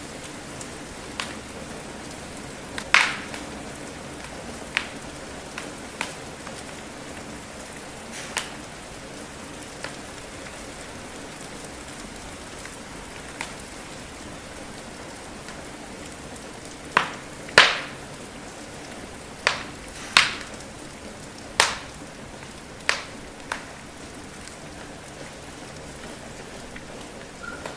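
Steady patter of rain with the sharp crackles and pops of a burning wood fire scattered through it, a run of louder pops coming a little past the middle.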